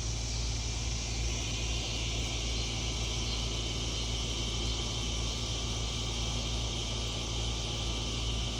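Steady background noise: a constant low rumble with an even high-pitched hiss, unchanging throughout.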